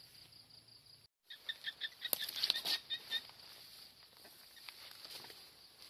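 A bird chirping in a quick run of short notes, about six a second, for around two seconds, starting just after a moment of dead silence. Faint outdoor background runs under it.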